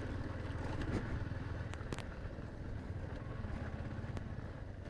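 Motorcycle engine running steadily while riding, a low even rumble, with a few faint clicks about two seconds in.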